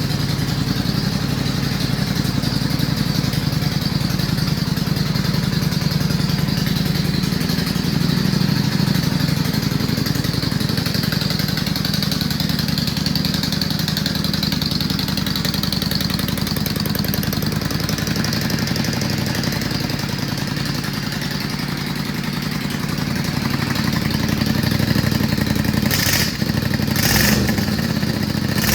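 Yamaha Drag Star 400's air-cooled V-twin idling steadily through slash-cut mufflers. Near the end there are a few short, sharp noises.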